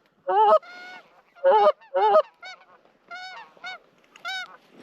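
Canada geese honking in a quick run of about ten calls, some loud and close, others fainter.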